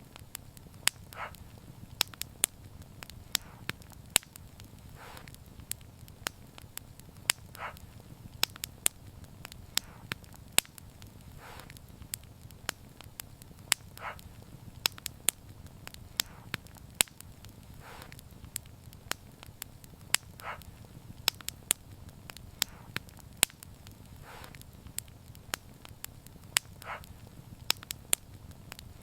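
Wood fire crackling: many sharp, irregular pops and snaps over a low, steady rumble of the burning fire, with softer puffs about every two seconds.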